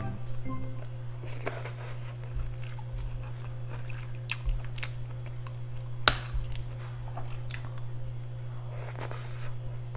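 Close-miked chewing and crunching of seafood eaten by hand, with scattered shell clicks and one sharp crack about six seconds in, over a steady low hum.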